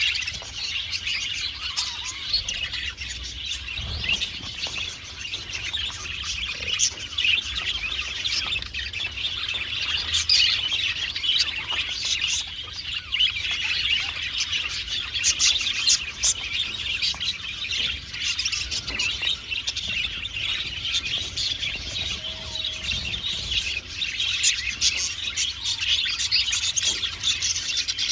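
A colony of budgerigars in an aviary chattering and chirping together, many birds at once in a dense, continuous warble with frequent sharp chirps.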